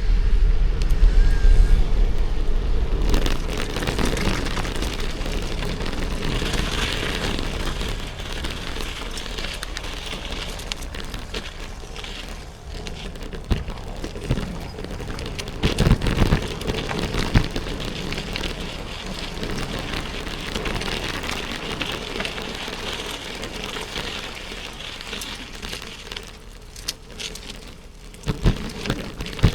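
Wind and tyre noise from riding a bicycle, picked up by an action camera's built-in microphone: a steady rush with heavy wind rumble in the first few seconds and a few sharp knocks from bumps near the middle and near the end.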